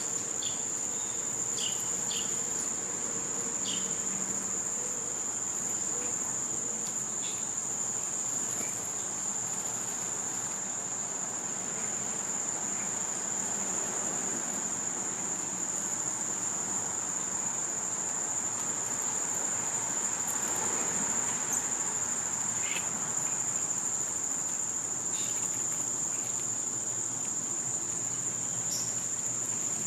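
A steady, high-pitched chorus of summer insects droning without a break, with a few short bird chirps in the first few seconds and again near the end.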